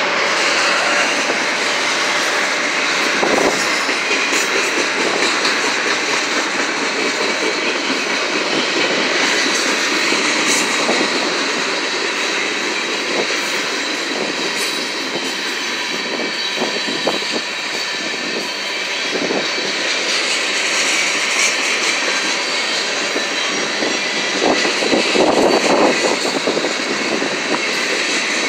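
Union Pacific manifest freight train's cars rolling past close by: a steady loud rumble and rush of steel wheels on rail, with a few clanks and knocks, clustered near the end.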